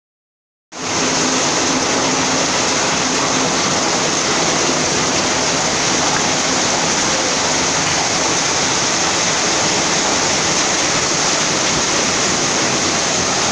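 Heavy downpour of rain: a loud, steady, dense rushing noise that starts abruptly under a second in.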